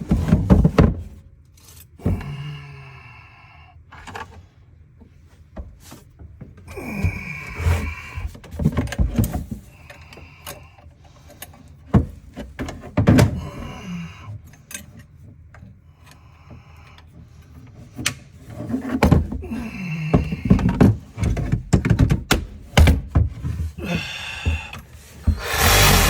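Plumbing demolition: irregular knocks and thuds, with short squealing scrapes as pipe is worked loose and dragged. Near the end a power tool starts up and runs steadily.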